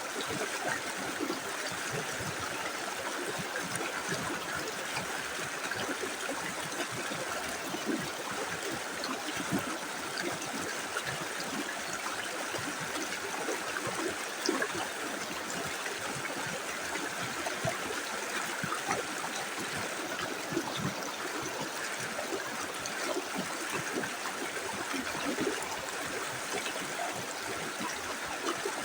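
Small river running steadily: a continuous rush of flowing water with many small, brief splashing notes in it.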